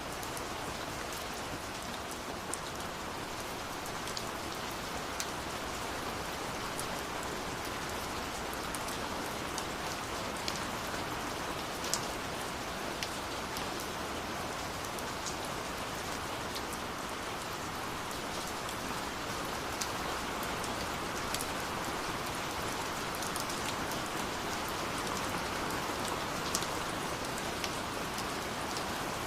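Steady rush of a waterfall, with the scattered sharp crackles and pops of a wood fire over it at irregular moments.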